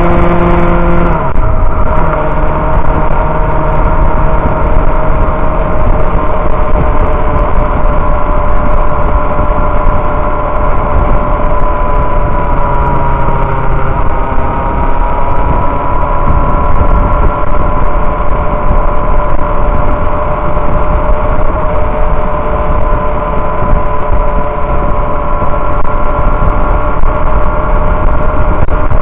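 Sport motorcycle's inline-four engine running at cruising speed, heard from the rider's seat with heavy wind rush on the microphone. The engine pitch drops about a second in, then holds steady with a slight dip and rise midway.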